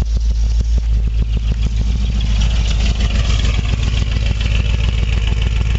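Ford Bronco's V8 engine idling steadily just after a cold start, having sat unstarted for about a week; an even, rapid exhaust pulse.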